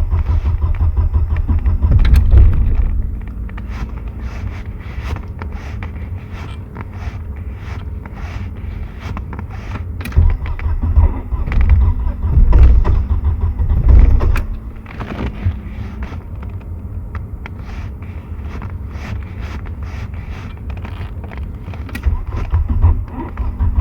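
Car engine being cranked by its starter on a freezing morning, turning over again and again without starting. There are louder spells of cranking near the start, in the middle and at the end, with quieter stretches between.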